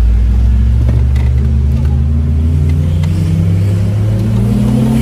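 Supercharged VW G60 four-cylinder engine in a first-generation Golf Cabrio, heard from inside the car while driving; the engine note is steady at first, then rises about halfway through as the car accelerates.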